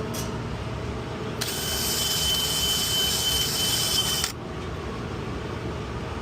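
A power drill runs for about three seconds, a high whine with hiss, as it scrubs caked-on calcium scale off humidifier parts. A steady mechanical hum runs underneath.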